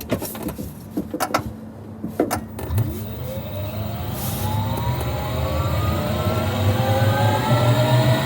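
A few knocks and clicks, then from about three seconds in a Cybertruck's electric drive whines up steadily in pitch and gets louder as the vehicle pulls away and speeds up.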